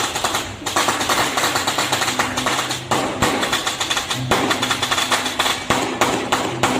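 A string of firecrackers crackling in a rapid, continuous stream of sharp bangs, with the procession's drums and gongs underneath.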